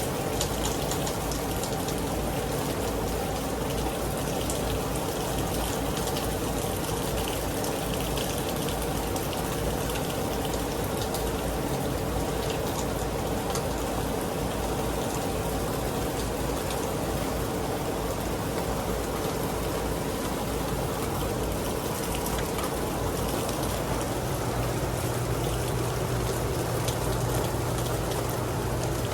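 Heavy rain falling steadily, a dense hiss of water with many fine drop ticks. A low steady hum joins near the end.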